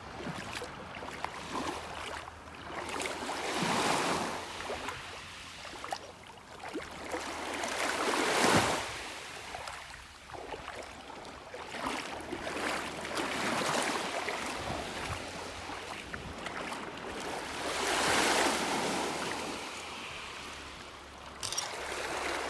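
Waves on Lake Huron washing onto a rocky beach, swelling and falling away every four to five seconds.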